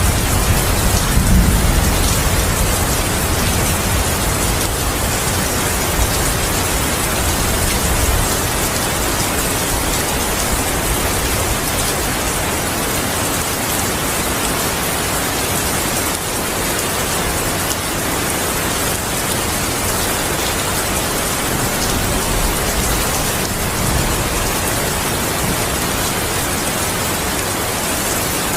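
Steady heavy rain falling, with the low rumble of thunder dying away over the first several seconds.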